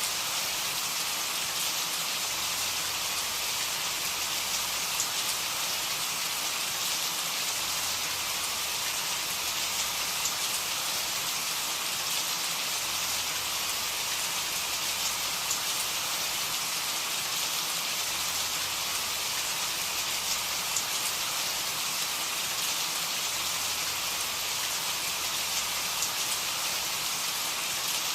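Steady rain falling, an even hiss with small drops pattering on a surface.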